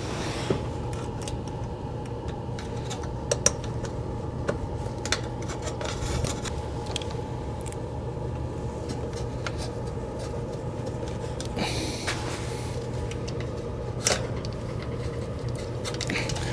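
A steady low mechanical hum, with scattered light clicks and taps of hand tools and wiring being handled during work on an HVAC fan motor's wiring.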